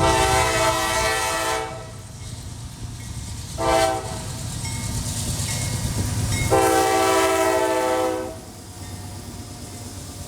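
Diesel locomotive air horn sounding a chord in three blasts: long, short, then long. The low rumble of the train running underneath continues after the horn stops.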